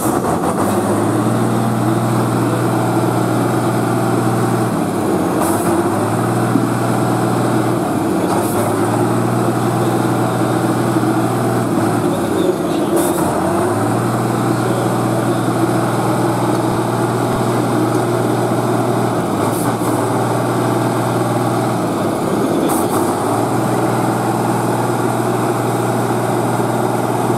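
Competition truck's diesel engine running loud under load at steady revs, easing off briefly several times as it works through a trial section.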